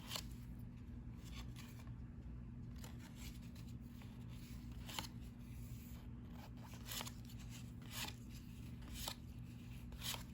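Cardboard trading cards, 1990-91 NBA Hoops, being slid and flicked one by one through the hands, a soft stroke every second or two, over a steady low hum.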